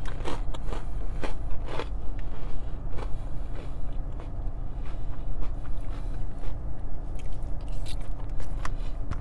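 Close-up chewing and crunching of a salad with croutons, picked up by a clip-on microphone, with scattered clicks and scrapes of a plastic fork in a plastic container. The crunches are busiest in the first two seconds and again near the end.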